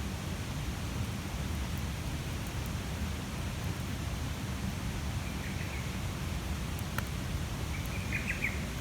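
A large wood bonfire burning with a steady rushing noise and low rumble, with a few sharp crackles, the clearest about seven seconds in.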